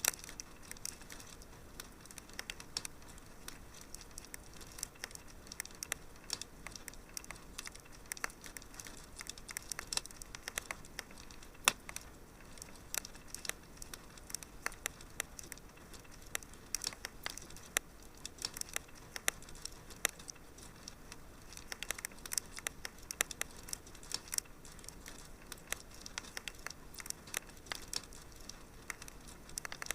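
Wood fire crackling in a fireplace: a dense, irregular run of sharp pops and snaps over a soft hiss, with one louder pop about twelve seconds in.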